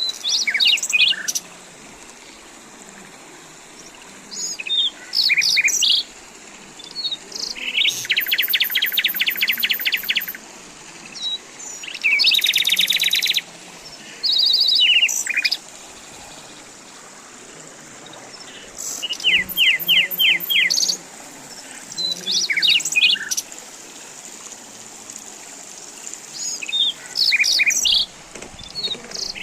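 Songbirds singing and calling. Bursts of rapid trilled notes and short chirps come every few seconds, over a faint steady background hiss.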